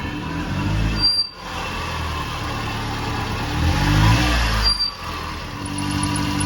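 1995 Subaru Sambar kei truck's small four-cylinder engine revving up twice, each rise in pitch cut by a brief drop-out, then running steady near the end.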